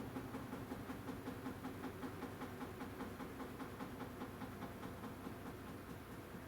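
AQUA washing machine with a direct-drive inverter motor running mid-cycle: a steady motor hum with quick, regular pulses of about four or five a second, easing slightly near the end.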